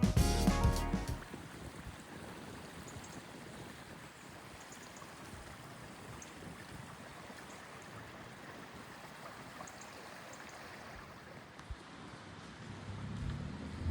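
Music with drums ending in the first second, then faint steady background noise with no clear source. A low rumble builds near the end.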